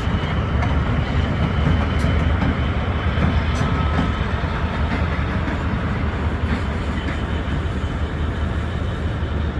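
Train running past with a steady, loud low rumble of engine and wheels on track, with a few faint clicks from the rails.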